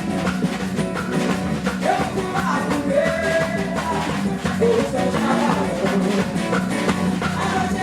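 Live band playing a Brazilian São João song: acoustic guitar, bass, trombone and a large percussion section with a steady beat, with singing.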